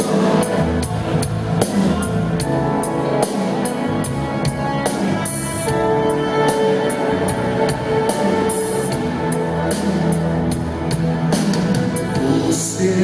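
Live band playing an instrumental song intro: a drum kit keeping a steady beat, about two to three strikes a second, under sustained instrument notes.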